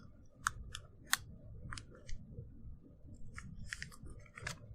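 A paper airplane's wing being folded down and creased: a series of short, crisp paper crackles and rustles, about nine in all and irregularly spaced.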